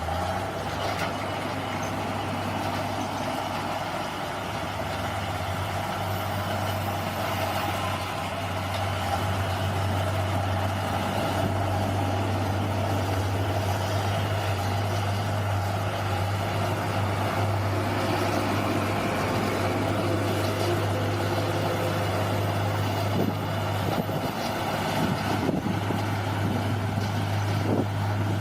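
Bulldozer's diesel engine running steadily, with a deep constant hum, and a few short knocks near the end.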